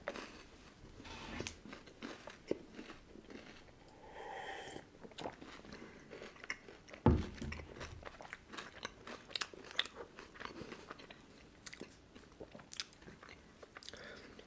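A person chewing and crunching sweets close to the microphone: scattered soft crunches and mouth clicks, with one louder low thump about seven seconds in.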